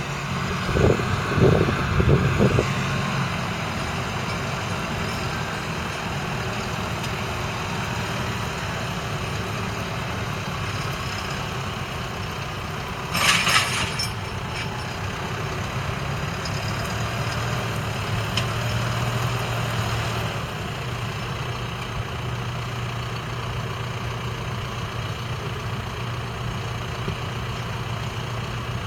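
Massey Ferguson 5S.145's 4.4-litre four-cylinder diesel engine running steadily, with a few loud low thumps in the first couple of seconds and a brief rushing burst about halfway through.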